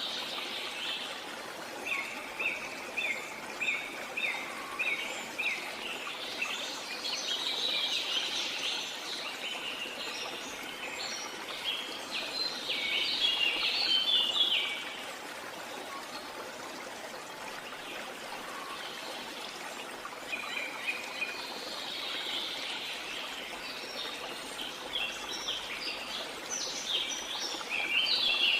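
Steady rush of falling water, with birds calling over it in spells of short repeated chirps: a dense flurry about halfway through, a lull after it, and more calling near the end.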